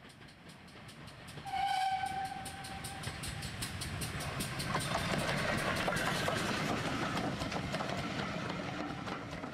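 Railway train sound: a train draws closer, gives one long whistle about a second and a half in, then runs past with a steady rhythmic clatter that eases slightly toward the end.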